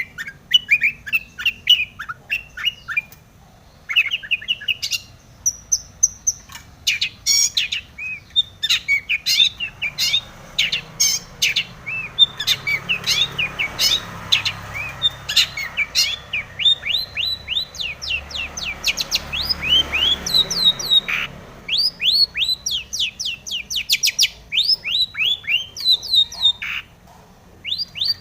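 Long-tailed shrike (cendet) singing a rapid, varied song of sharp down-slurred chirps and clicks, filled with mimicked calls of other birds such as the tomiceng. It pauses briefly about four seconds in and again near the end.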